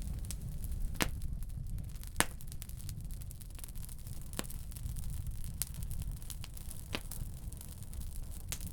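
Wood-burning stove fire crackling: sharp pops from burning firewood every second or two, over a low steady rumble.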